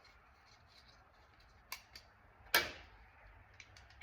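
Small screws being handled and put back onto a car door panel part: a few light clicks and taps, the sharpest one about two and a half seconds in.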